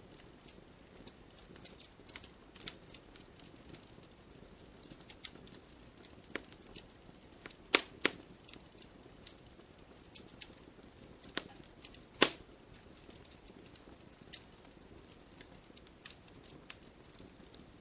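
Campfire wood burning and crackling: irregular sharp pops and snaps over a soft low hiss, with a few louder pops, the loudest about 8 and 12 seconds in.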